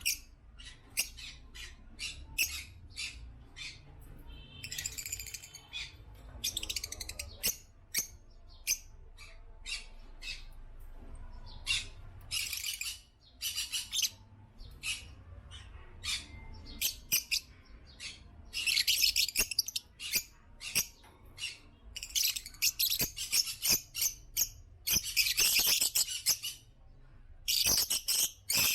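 African lovebirds chirping and chattering: a steady stream of short, sharp, high-pitched chirps, breaking into dense bursts of chatter that come more often in the second half.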